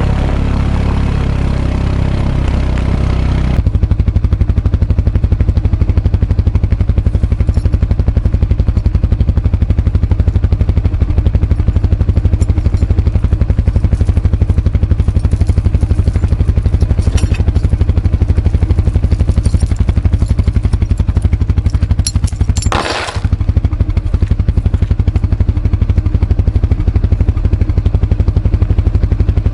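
Kawasaki ATV engine running with a steady, fast low pulsing, its sound changing about three and a half seconds in. A short clattering, scraping burst comes about two-thirds of the way through.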